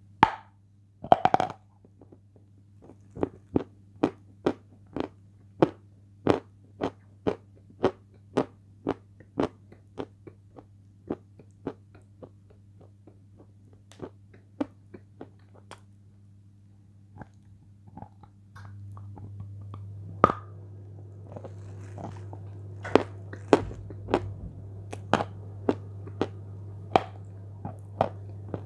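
Close-up mouth sounds of a hard grey block of edible chalk being eaten: one loud bite about a second in, then steady crisp crunching chews, about two a second. A low hum grows louder about two-thirds through, and the crunching gets denser.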